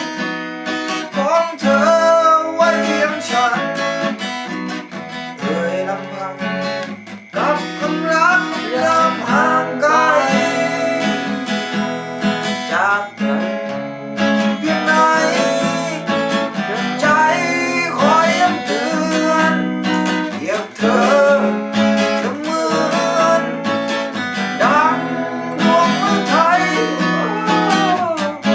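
Acoustic guitar music, strummed chords under a melodic line that bends and slides in pitch, with no sung words.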